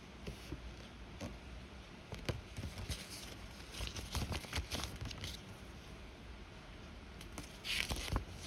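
Earbud packaging being handled: paper and plastic rustling and crinkling, with scattered small clicks and taps that come in clusters, the loudest near the end.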